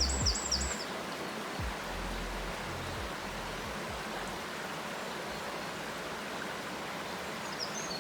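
Steady rushing of flowing water, an even hiss, with a few brief low thumps in the first few seconds.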